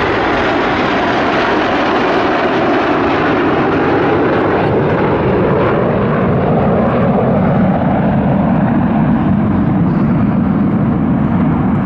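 Jet noise from the Red Arrows' BAE Hawk T1 trainers flying past in formation, a loud steady rush whose pitch falls slowly as they pass and move away.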